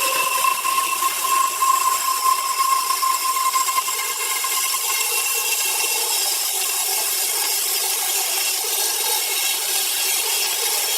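Power saw cutting through a large log: a steady, continuous cutting hiss with a high whine that weakens about halfway through.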